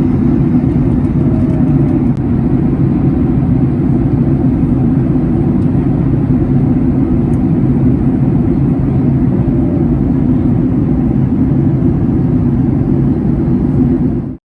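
Steady low roar of jet engines and airflow inside a Boeing 737-900's cabin. It cuts off abruptly at the end.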